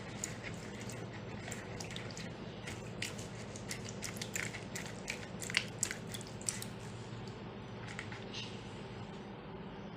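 A spoon stirring yeast, sugar and warm water in a bowl: irregular light clicks and scrapes against the bowl, busiest through the middle few seconds and dying away near the end, over a steady low hum.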